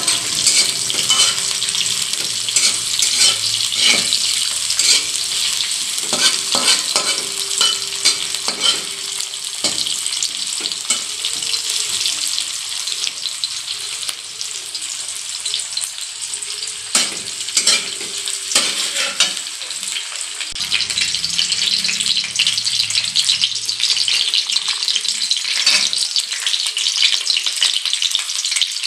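Sliced onions sizzling steadily in hot oil in a metal wok, with a metal spatula scraping and knocking against the pan now and then as they are stirred.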